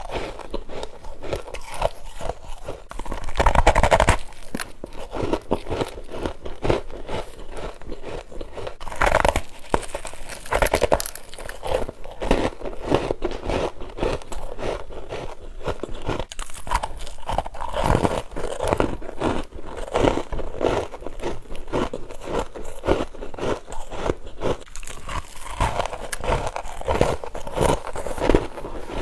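A person biting and chewing freezer frost close to the microphone: a steady run of crunching and crackling bites, loudest about four seconds in.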